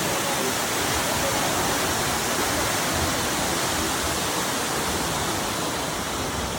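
Materuni Falls, a waterfall of nearly 300 feet, rushing steadily into its plunge pool: an even, unbroken roar of falling water.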